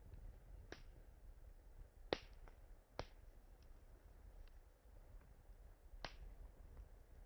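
Campfire wood crackling: a few sharp pops, the loudest about two seconds in, with fainter snaps between them over a low rumble.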